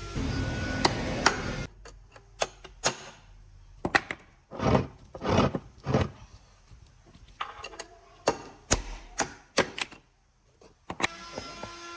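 Irregular knocks and clatters of hands-on work, with a few longer rubbing or scraping sounds about five seconds in. Background music stops near two seconds in and comes back near the end.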